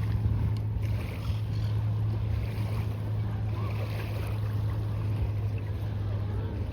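Seaside ambience while walking along a beach: a steady low hum under an even wash of wind and surf noise.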